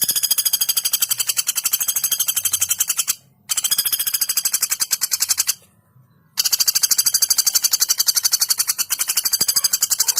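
Female common flameback woodpecker (pelatuk bawang) giving long, rapid rattling trills in three runs, the last starting about six seconds in.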